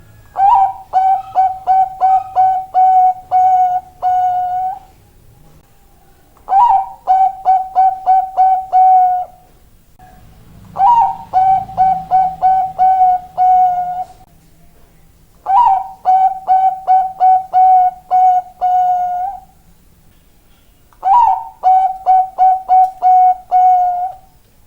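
Zebra dove (Bangkok-type perkutut) cooing its song five times. Each phrase opens with a slightly higher note and runs on as a quick series of about eight clipped coos on one steady pitch, with a pause of a second or two between phrases.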